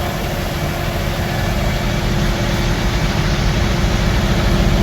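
Semi-truck diesel engine idling steadily: a low, even rumble with a constant hum above it.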